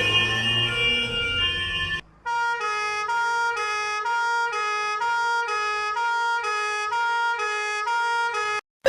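Electronic two-tone emergency-vehicle siren alternating evenly between two close pitches, a little more than twice a second. It starts after a short break about two seconds in, and a different multi-tone siren ends just before that break.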